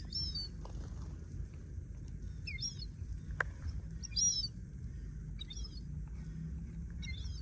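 Sparrows chirping: about five short, high chirps spaced roughly a second and a half apart. A single sharp click sounds about halfway through.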